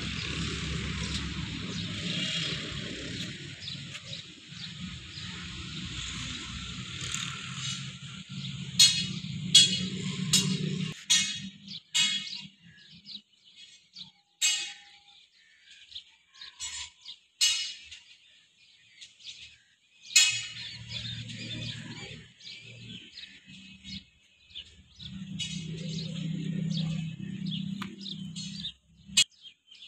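Birds chirping outdoors in short, sharp, repeated calls, loudest in a cluster about nine to twelve seconds in. Under them a low droning hum runs through the first third, drops out, then returns briefly past twenty seconds and again near the end.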